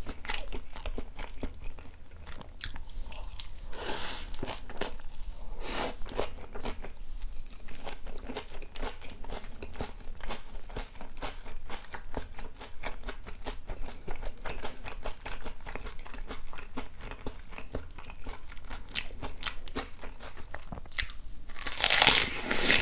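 Close-miked biting and chewing of crisp batter-fried chicken: dense, irregular crunches and wet chewing, with a few louder crunches, the loudest near the end.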